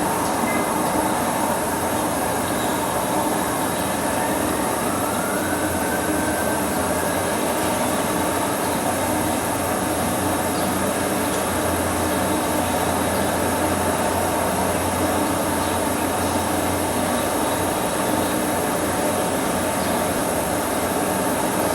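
Steady, unbroken mechanical noise with a low hum and no pauses, with a faint brief rising tone about six seconds in.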